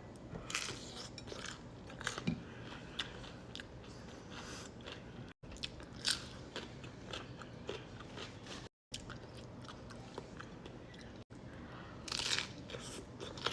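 Close-miked crunching and chewing of a crisp tostada topped with aguachile shrimp, in irregular crunchy bites with louder clusters just after the start, about halfway through and near the end.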